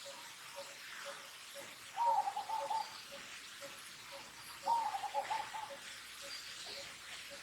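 Two short hooting animal calls, each about a second long and pulsing, about two seconds apart, over a faint regular ticking about two and a half times a second.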